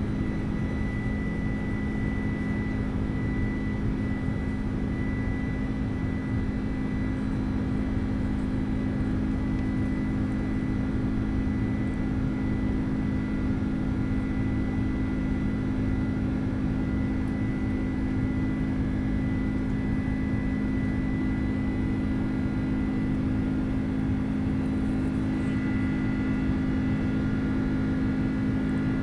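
Passenger airplane in flight: a steady, unchanging drone of engines and airflow with a low hum and a faint high whine held throughout.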